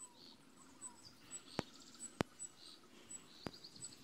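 Faint songbirds chirping in trees: a string of high thin chirps with a couple of short trills, over soft outdoor background noise. Three sharp clicks stand out as the loudest sounds.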